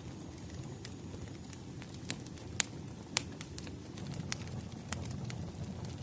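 Wood fire crackling: a steady low noise of burning logs with irregular sharp pops, the loudest about two and a half and three seconds in.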